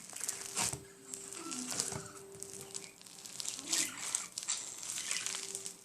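Homemade borax-and-glue slime packed with small foam balls, squeezed and worked by hand, giving irregular crackling, squishing sounds.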